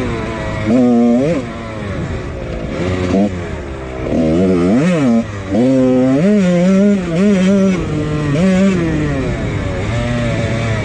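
1999 Husqvarna CR125 two-stroke dirt bike engine, fitted with a Pro Circuit exhaust, being ridden with the revs rising and falling over and over. There are sharp revs about one and five seconds in.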